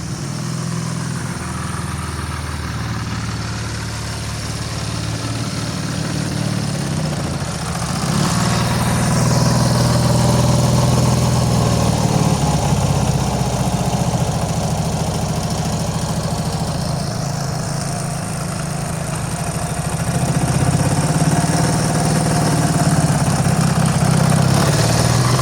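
Ural M67-36 motorcycle's flat-twin engine running steadily, getting louder about eight seconds in and again around twenty seconds in.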